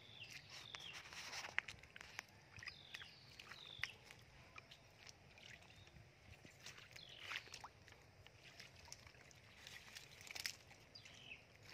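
Faint outdoor ambience: a bird giving short, high, falling chirps at irregular intervals, with soft footsteps and sloshing in shallow water.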